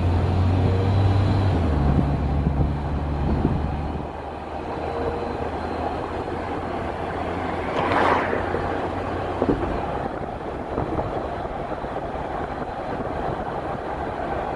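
Motor vehicle running with a low engine hum that drops away about four seconds in, leaving steady road or traffic noise, with a brief louder whoosh about eight seconds in.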